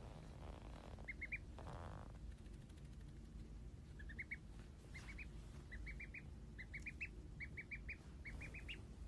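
Faint, short high-pitched peeps from a small animal, in quick runs of three or four, each run repeated about once a second.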